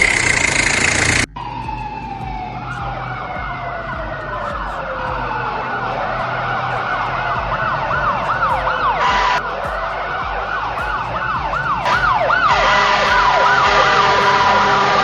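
An emergency-vehicle siren wailing fast, its pitch swinging up and down about twice a second, starting a couple of seconds in after a vehicle engine sound cuts off abruptly near the start.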